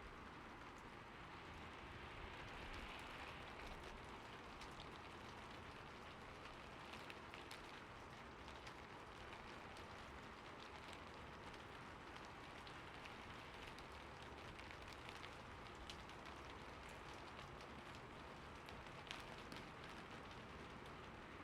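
Quiet, steady rain falling, with scattered sharper ticks of individual drops striking a surface.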